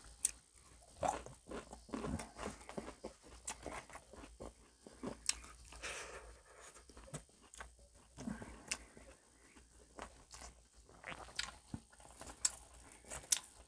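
Close-up mouth sounds of someone eating: chewing with irregular crunches of crisp fried food and some wet smacking.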